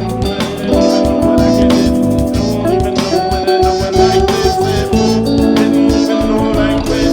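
A band improvising: guitar and other held notes over a steady beat.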